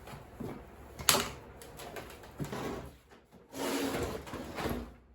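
Handling noises from an old TV set being moved and checked: a sharp click about a second in, then small knocks and a stretch of rustling and clatter.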